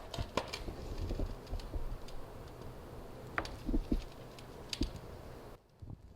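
Scattered light clicks and taps of small tools and objects being handled on a work surface, irregular and unhurried.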